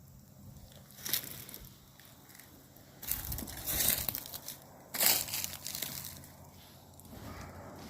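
Footsteps crunching through dry leaves and twigs on a woodland floor, a few uneven steps with pauses between them.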